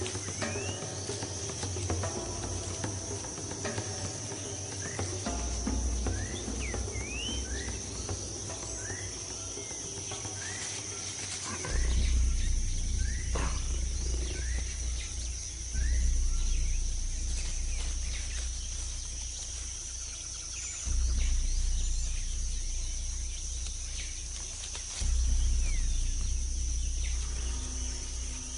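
Tropical forest ambience: a steady high insect drone, with short rising bird chirps repeated every second or so in the first half. Deep low music notes swell in about halfway through and return three more times.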